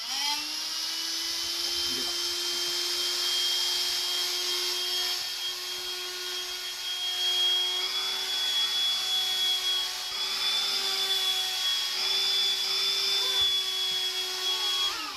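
Electric vacuum cleaner switched on, running steadily with a high whine and hiss for about fifteen seconds, then switched off and winding down near the end.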